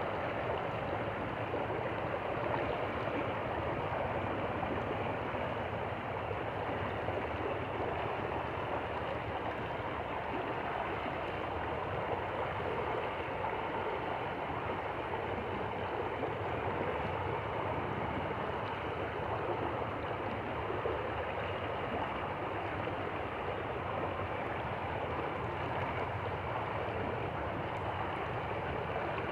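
Stream water flowing steadily, an even, unchanging sound.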